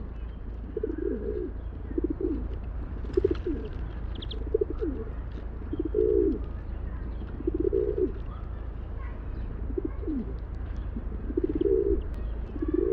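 Feral pigeons cooing: low, rolling coos repeated every second or two, with faint chirps of smaller birds above them and a steady low rumble underneath.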